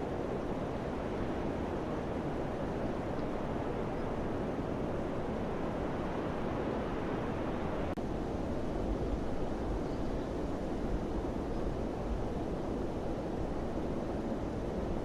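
Steady rushing wind, with stronger low gusts buffeting the microphone in the second half.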